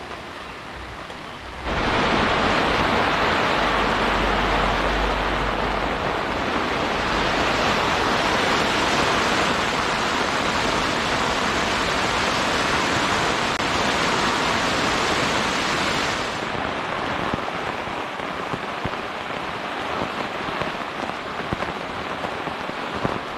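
Heavy rain pouring down in a steady hiss. It jumps abruptly louder about two seconds in and drops back somewhat about two-thirds of the way through, where single drops can be heard landing.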